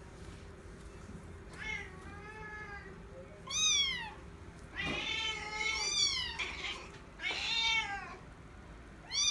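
Bengal cat meowing repeatedly: about five separate meows, each rising then falling in pitch, the first starting about a second and a half in and the last near the end.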